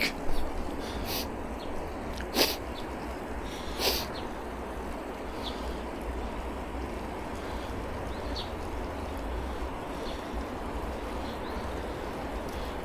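Steady rushing wind and road noise from a bicycle ride, with a low rumble on the camera microphone. Four short, sharp clicks or splashes come in the first four seconds, and a few faint high chirps follow.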